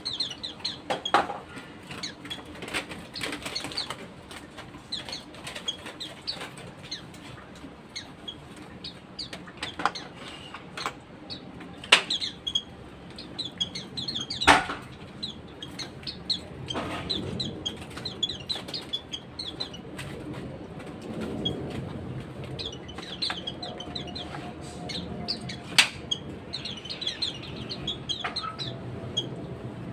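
Pet white-eyes (pleci) giving short, high chirps, with repeated wing flutters and sharp taps, and a few louder knocks now and then.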